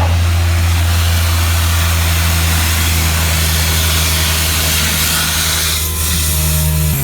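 Vacuum truck's suction system running steadily, a deep hum under a loud rushing hiss of air drawn in through the hose.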